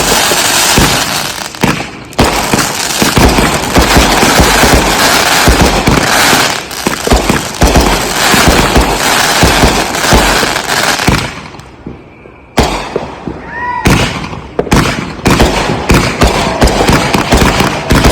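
Consumer firework cakes firing a dense, rapid barrage of booms and crackling that runs almost without a break, dips briefly about two-thirds of the way through, then picks up again in quick shots.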